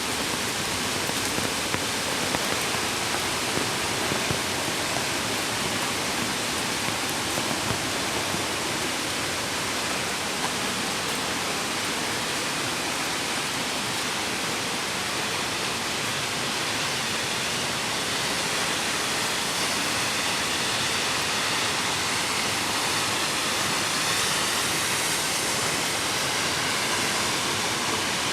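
Mountain creek rushing over rocks, a steady full hiss of running water.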